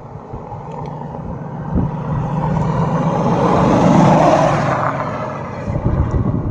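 A motor vehicle driving past: its engine and tyres grow louder to a peak about four seconds in, then fade away.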